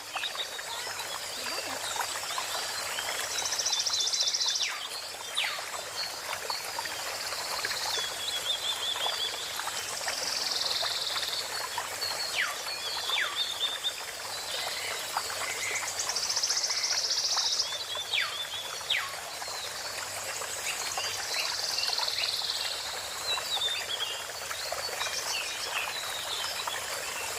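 Small birds calling in an aviary: a recurring buzzy call every several seconds and quick series of chirps, over a steady trickle of running water.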